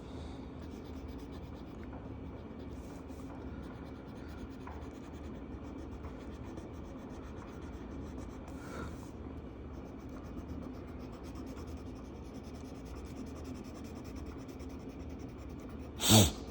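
Marker strokes scratching and rubbing on a colouring-book page, over a steady low hum. A brief, loud, sharp sound near the end.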